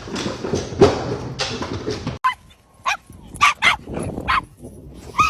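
A dog barking, a string of short, sharp barks.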